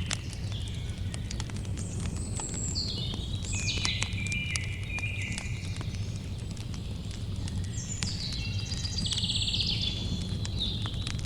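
Campfire crackling with scattered sharp pops over a steady low rumble. A songbird sings two phrases of stepped whistled notes, the first from about two seconds in and the second from about eight seconds in, the second ending in a fast trill.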